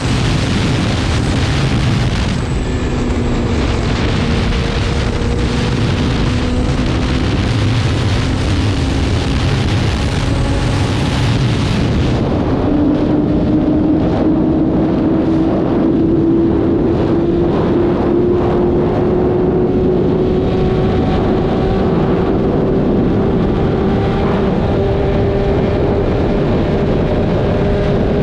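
BMW S1000RR's inline-four engine running under way, with wind rush over it. The engine note climbs slowly and steps up about twelve seconds in, where the high hiss also drops away.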